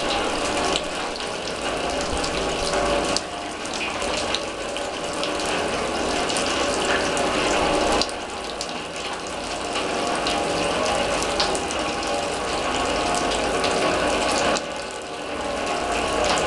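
Rain falling on a steel drum and the surfaces around it: a dense, steady patter of drops with many small, sharp metallic ticks. The patter briefly eases three times.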